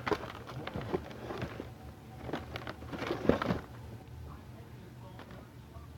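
Firework packages being handled and packed into a storage bag: clusters of clicks, knocks and rustling packaging in the first second and a half and again around three seconds in, then quieter.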